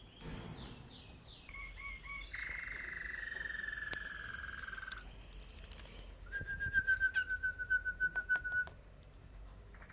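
Canary singing: a few short chirps, then a long rolling trill that slowly falls in pitch, and after a short pause a faster trill of rapid repeated notes, with sharp clicks in the last part.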